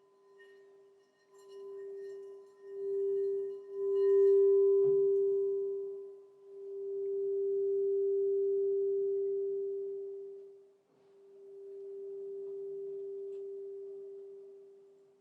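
Crystal singing bowl ringing one steady, pure tone that swells and fades in slow waves. There is a soft knock about five seconds in.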